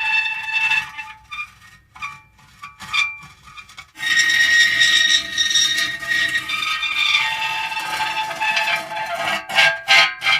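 Metal creaking and squealing in drawn-out pitched tones. It drops to scattered clicks and short creaks for a few seconds, then a long sustained creak comes in about four seconds in.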